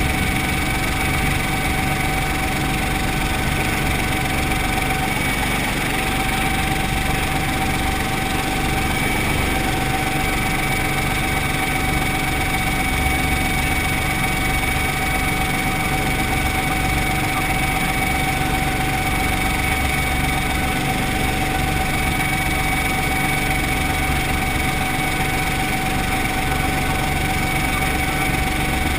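Brantly B2B helicopter's piston engine and rotor running steadily, a constant drone with a steady high whine over it.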